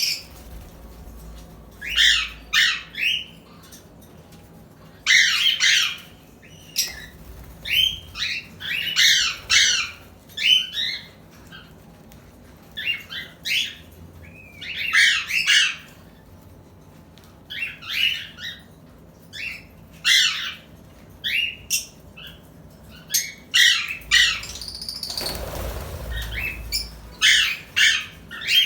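Pet parrots calling: short, harsh squawking chirps in clusters every second or two. Near the end, a rushing noise lasts a couple of seconds under the calls.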